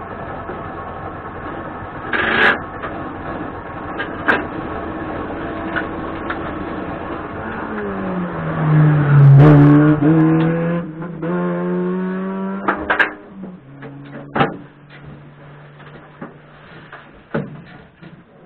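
Race car engine heard from inside the stripped, caged cabin while the car stands still. It idles, is revved up and held for a few seconds around the middle, then drops back to a steady idle. A few sharp knocks sound along the way.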